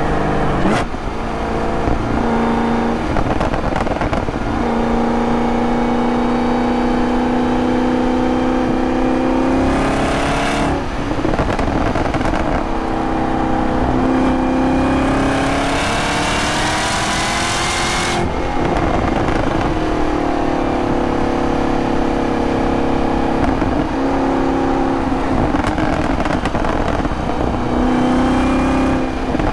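2023 Camaro ZL1's supercharged 6.2-litre V8 under way through the gears of its six-speed manual. Revs hold steady for stretches, broken by several gear changes, with one long climb in revs about halfway through that drops off sharply at an upshift.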